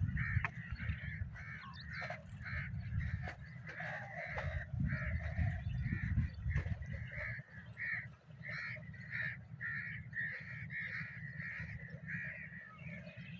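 Birds calling over and over, short calls coming about twice a second, over a steady low rumble.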